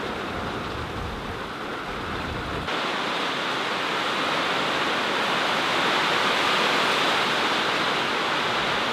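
Heavy thunderstorm rain pouring down in a steady hiss, loud on a tin roof. A low rumble underneath cuts off abruptly about a third of the way in, and the rain hiss grows louder from there.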